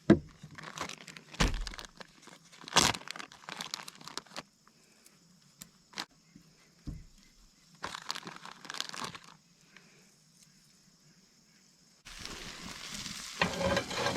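Crinkling and rustling of food packaging with scattered clicks and knocks of handling, then about twelve seconds in a steady sizzle of food frying in hot oil starts abruptly.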